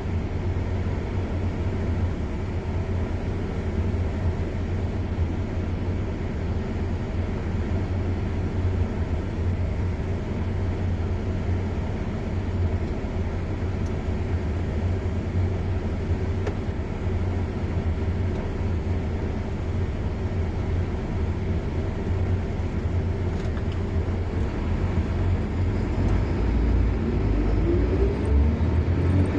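Car driving on a road: a steady low rumble of engine and tyre noise, with a rising tone near the end.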